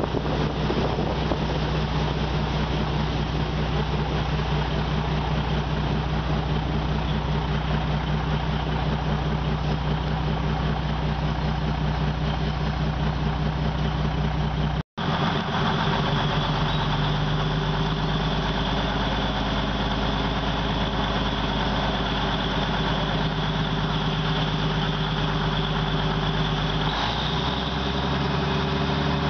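Diesel passenger train running, heard from an open carriage window: a steady engine hum over the running noise, easing as the train rolls slowly through a station. The sound drops out for an instant about halfway through.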